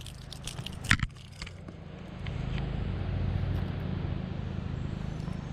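A few sharp clicks and crackles of handling noise in the first second, then a steady low rumble from about two seconds in.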